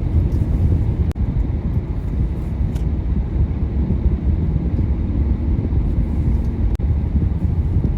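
Car driving on a plowed road: a steady low rumble of road and engine noise, briefly dipping twice.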